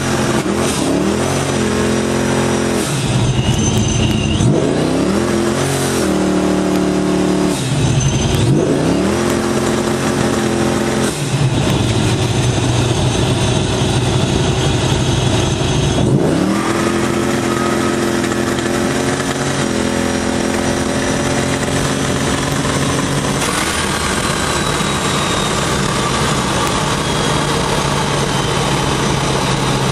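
A car engine, heard from inside the car, accelerating hard through several gear changes: the pitch drops at each shift and climbs again. From about halfway in it runs at a steady cruising pitch with only small changes in throttle.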